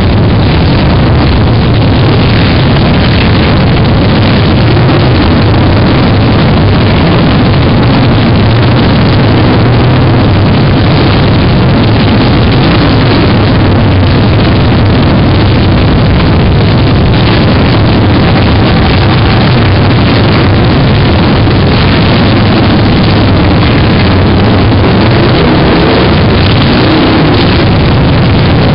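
A long stream of motorcycles riding past in procession, many engines running together in a loud, continuous din that never lets up.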